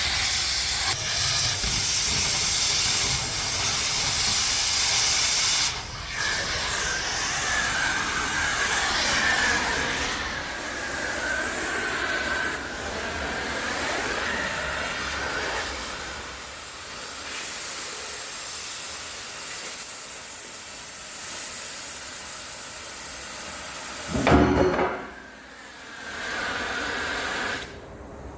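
Steady, loud hissing of hot-cutting the steel plate of a Caterpillar D8 dozer blade with a cutting torch, broken by short pauses. There is a sharp loud burst about three-quarters of the way through, then a brief lull before the hissing starts again.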